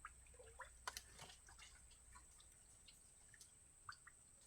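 Faint, scattered drips and small splashes of shallow muddy water, a few light clicks among them, as the bottom of a drained pond is searched by hand for fish.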